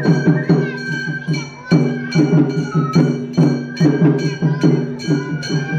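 Festival float hayashi music: a high bamboo flute holding long notes over a steady rhythm of struck gongs and drums, about three strikes a second.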